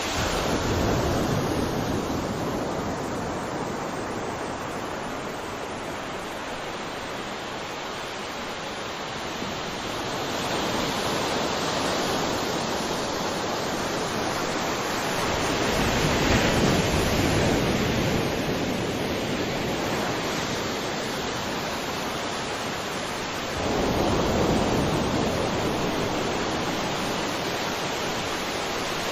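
Sea waves washing onto a shore: a continuous rush of surf that swells and ebbs in slow surges, about four waves in all. The loudest comes about halfway through, and one rises sharply near the end.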